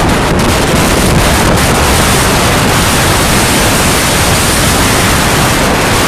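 Storm wind and surf making a loud, steady rush of noise, with the wind blowing on the microphone.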